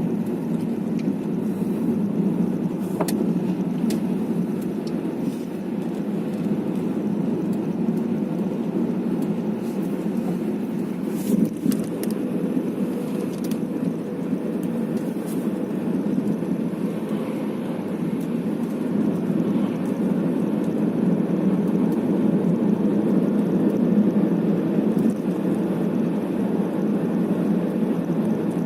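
Steady road and engine noise inside a moving car's cabin, picked up by a windscreen-mounted dashcam, with a couple of faint clicks, one a few seconds in and one about halfway.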